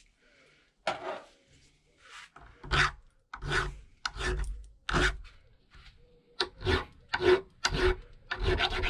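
Repeated rasping, scraping strokes of a hand tool working on a metal part, about a dozen short strokes at an uneven pace.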